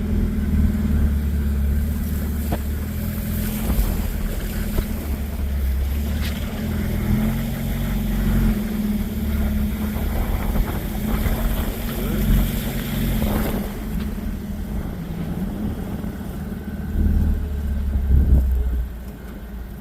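A 4x4's engine running as it drives off-road, a steady low drone that swells and eases with the throttle, with some wind noise on the microphone.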